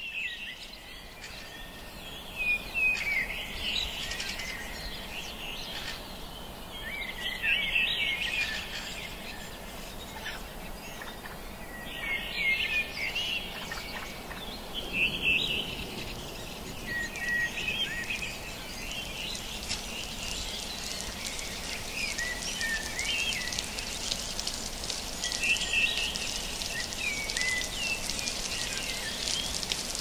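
Birds calling and chirping in short bursts every few seconds over a steady background hiss, which grows brighter near the end.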